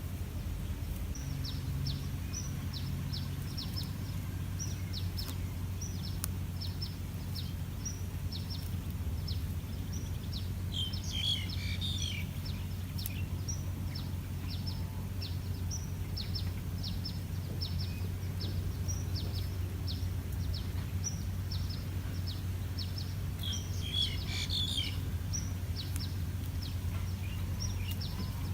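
Birds chirping in a wild setting: a steady run of short, high, falling chirps, about two a second, with two brief bursts of busier calls, about eleven seconds in and again near the end, over a low steady rumble.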